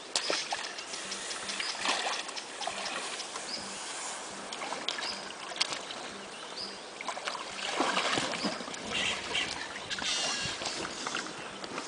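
Kayak paddle strokes in river water: dips and splashes with water dripping off the blade, swelling louder about two seconds in and again near eight and ten seconds. A short, high call repeats about once a second in the background.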